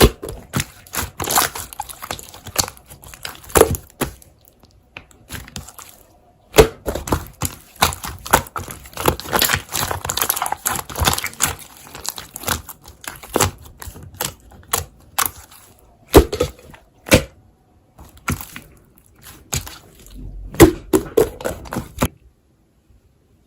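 Slime being squished and worked by hand, giving a dense, irregular run of sharp clicks, pops and crackles. It stops about a second before the end.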